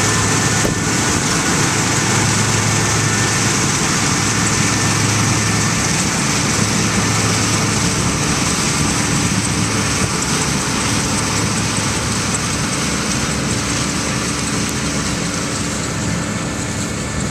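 Massey Ferguson 860 combine running steadily while harvesting wheat: a constant engine hum under a dense, even hiss of machinery.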